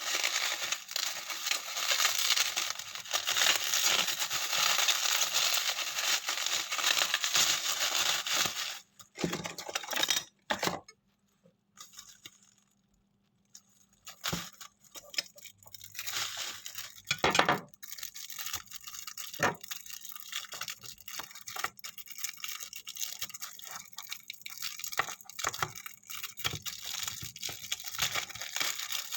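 Packaging being unwrapped: steady crinkling and tearing for the first nine seconds or so, then scattered clicks, taps and rustles as the contents are handled.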